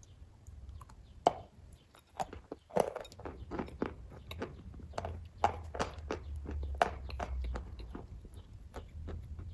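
A person chewing kaju katli, the soft cashew fudge sweet, close to the microphone: an irregular run of short mouth clicks, a few a second.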